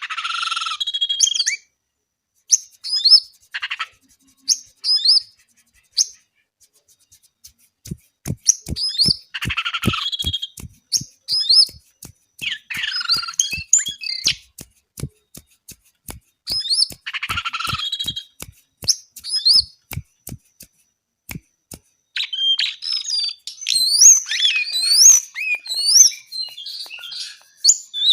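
Jongkangan (brown-throated sunbird) singing busily: rapid high chirps and twittering trills in short phrases, thickest near the end. Through the middle runs a steady series of sharp clicks, about two a second.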